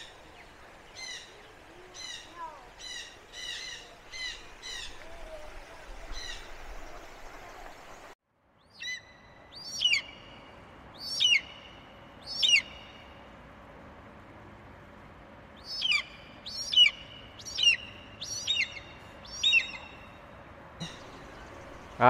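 Captive birds calling: runs of short, sharp, high call notes repeated about once a second or faster. The sound cuts out briefly about eight seconds in, then three louder calls come a little over a second apart, and another run of calls follows later.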